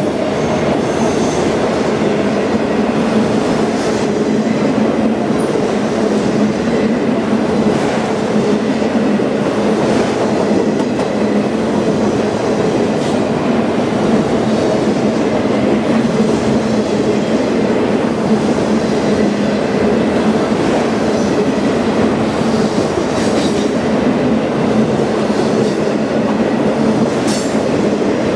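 A train rolling past at a steady speed, its cars rumbling and clattering over the rails.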